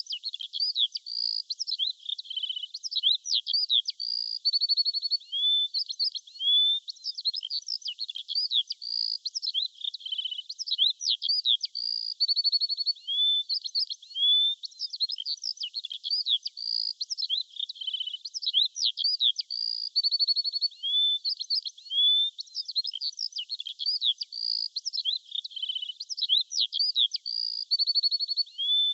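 Birdsong: a dense run of quick chirps, rising and falling whistled notes and a short buzzy trill, all high-pitched with no low sound beneath. The same phrases come round again about every eight seconds, as a repeating loop.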